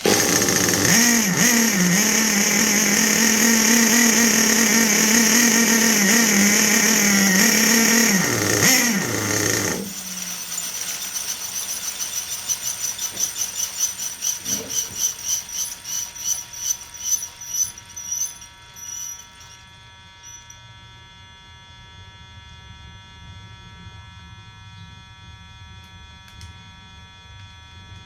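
Small nitro engine of an HPI Savage RC truck running steadily for about ten seconds, then cutting out, followed by a pulsing sound that fades away over the next eight seconds; the engine is not running right.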